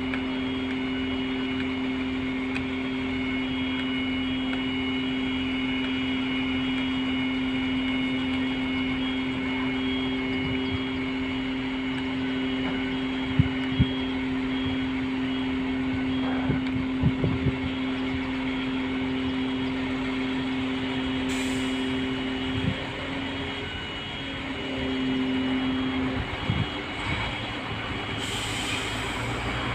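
Crane truck's engine and hydraulic drive running steadily with a held low whine. A high beep repeats at an even pace over it, with a few sharp knocks in the middle. The whine changes pitch about three quarters of the way through.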